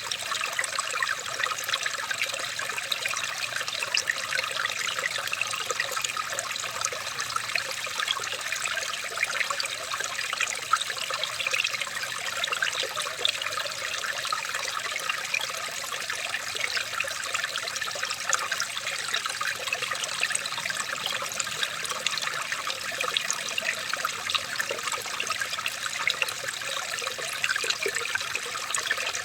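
Small stream of water trickling and babbling steadily, a continuous light splashing with no pauses.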